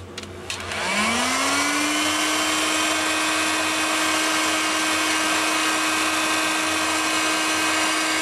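Electric heat gun switched on about a second in: its fan motor spins up with a rising whine, then runs steadily with a rush of air while shrinking heat-shrink tubing onto a wire.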